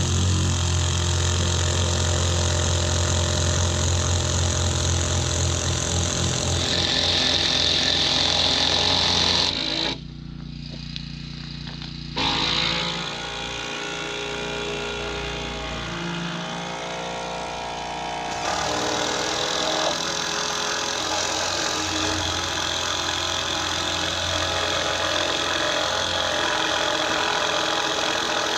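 Cordless impact drivers driving long log screws into fence timber. The hammering runs in stretches that stop and start, with a short break about ten seconds in.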